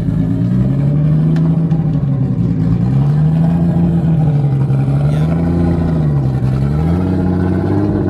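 BMW E30 coupe's engine running close by, its revs swelling and easing off gently several times.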